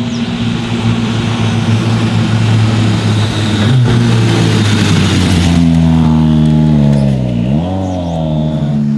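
Toyota Yaris WRC rally car's engine running hard under load, with a steady hiss of gravel and tyre noise over the first half. About seven and a half seconds in, the engine pitch drops briefly and climbs again.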